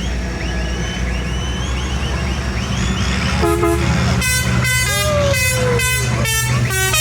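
Vehicle horns tooting in a rapid run of short blasts from about three seconds in, one blast falling in pitch, over the steady low running of engines.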